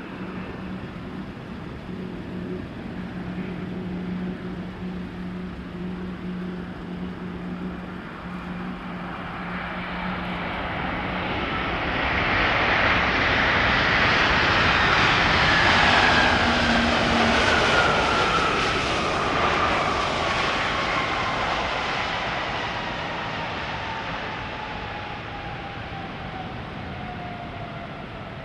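Jet airliner passing by: its engine noise builds to a peak about halfway through, then fades, with a whine that falls steadily in pitch as it goes away. A steady low hum is heard for the first third.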